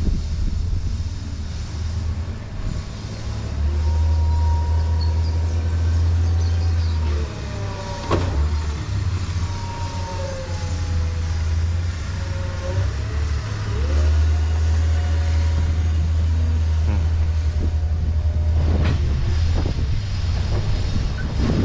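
Heavy vehicle engine running with a low rumble that swells and eases, while a fainter whine slides up and down in the middle. There is a sharp knock about eight seconds in and a few more knocks near the end.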